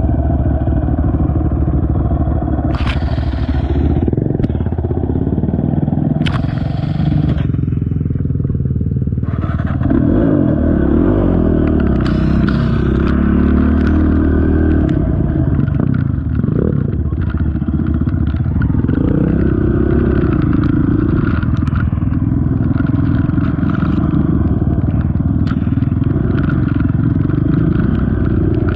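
Honda TRX450 ATV's single-cylinder four-stroke engine running on a trail ride, its pitch rising and falling with the throttle. A couple of sharp clacks in the first few seconds.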